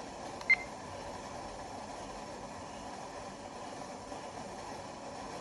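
A single short, high beep from an Icom 2200 radio transceiver's key-press tone about half a second in, over a steady low hiss.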